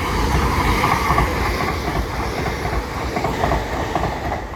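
Class 802 train passing through the station at speed, its wheels clattering on the track.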